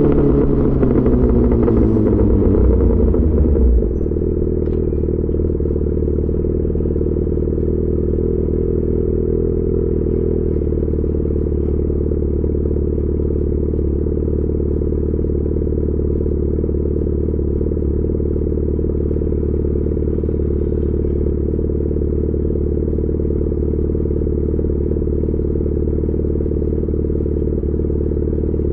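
Yamaha XJ6 S's 600 cc inline-four through an SC-Project exhaust, revs falling as the bike slows over the first few seconds, then settling about four seconds in to a steady idle that holds through the rest.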